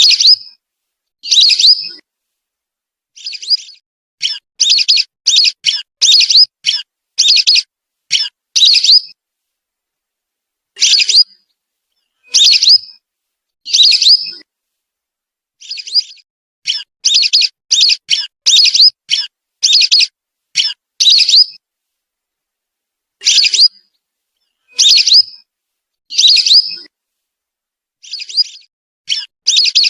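Whistling duck (belibis) calls played as a hunting lure: high, clear whistles, some heard singly and others in quick runs of six to eight notes, with dead silence between the groups.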